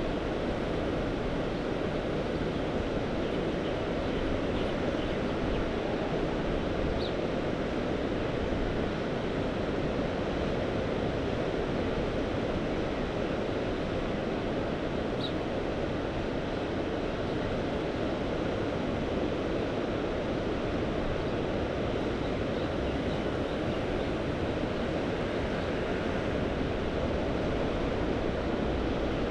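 Steady rush of Mediterranean sea surf, an even noise with no single breaking wave standing out.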